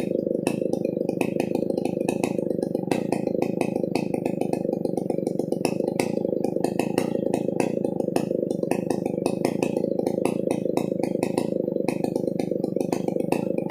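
Stihl 070 two-stroke chainsaw running steadily under load while ripping a coconut trunk lengthwise, with frequent sharp ticks over the engine note.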